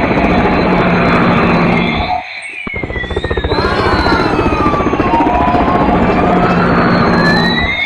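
Battery-powered toy helicopter's electronic siren wailing slowly down and back up, over a fast chopping rattle. Both drop out briefly just after two seconds.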